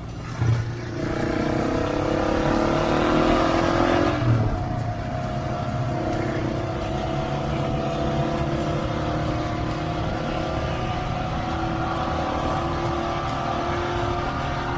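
Husqvarna 701 single-cylinder motorcycle engine under way, rising in pitch for about three seconds. About four seconds in the pitch drops sharply with a low thump, and the engine then runs steadily.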